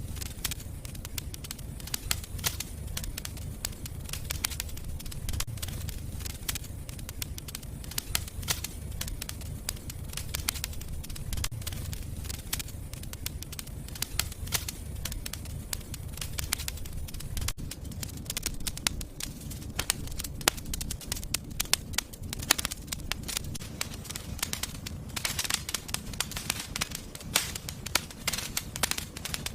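Fireplace fire crackling, with frequent sharp pops over a low steady rumble.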